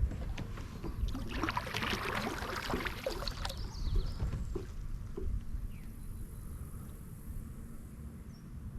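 Kayak paddle stroke: the blade dips and water pours and trickles off it, strongest between about one and three and a half seconds in, then fainter water sounds.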